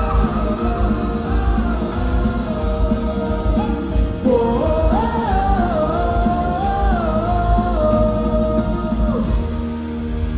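Live rock band music at full volume, a wordless melodic lead line bending up and down from about four seconds in over a steady band backing, easing off near the end.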